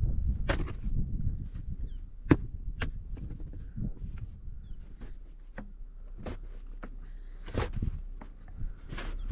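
Snow shovel digging into and scraping through deep snow, an irregular run of scrapes and knocks.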